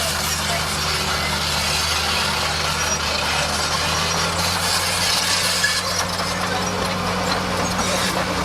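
Bulldozer's diesel engine running steadily, a constant low hum under a noisy mechanical hiss.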